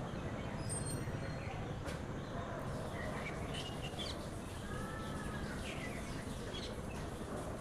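Small birds chirping in short, scattered calls from about three seconds in, over a steady low rushing background noise.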